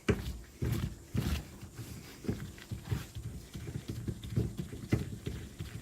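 Irregular knocks and clicks of hand tools and parts on a motorcycle shock absorber being worked on at the bench, a few per second, the loudest about a second in and again near the end.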